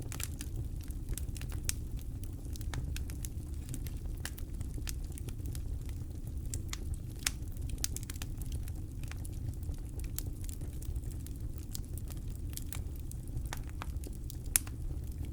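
Wood campfire crackling: irregular sharp pops and snaps over a steady low rumble, with one louder pop near the end.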